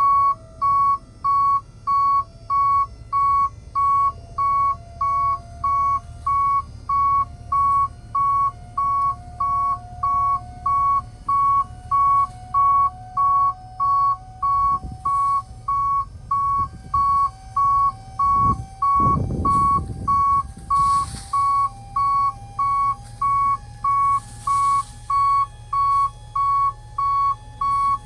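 Vehicle backup alarm beeping steadily at one pitch, about twice a second, over a low engine rumble, with a brief low rumbling rush of noise about two-thirds of the way through.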